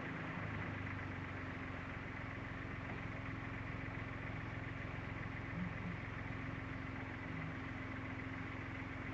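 Suzuki Jimny's engine idling steadily while the car stands parked: a low, even hum with no revving.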